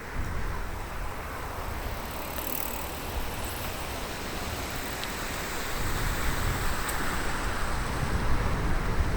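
Riding a bicycle on a road: steady tyre and road noise with wind on the binaural microphones, the wind rumble growing louder from about six seconds in.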